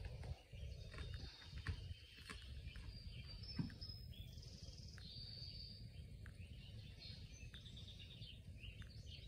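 Faint birds chirping outdoors, over a low steady room rumble with a few soft clicks.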